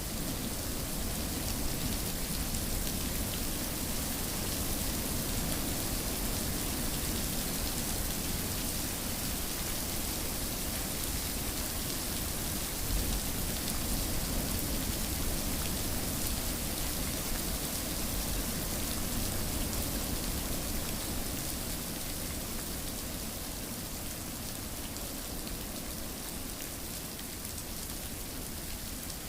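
Steady rain falling, a continuous even hiss of drops on surfaces.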